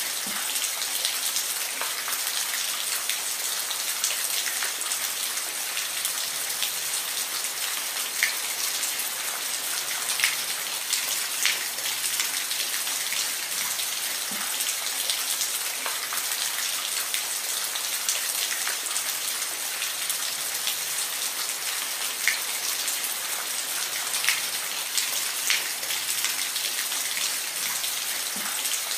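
Steady rain falling, a constant even hiss with scattered louder drops striking close by, several of them between about 8 and 12 seconds in and again between about 22 and 26 seconds in.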